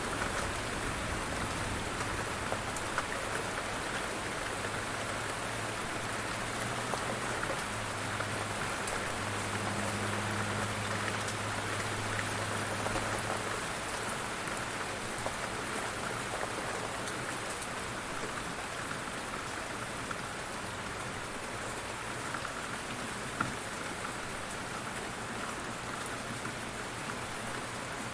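Steady rain falling, an even hiss with scattered drop ticks. A low rumble underneath fades away about halfway through.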